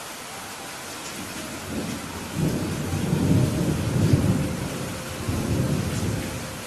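Steady rain hissing, with a long rolling rumble of thunder that swells about two seconds in and dies away near the end.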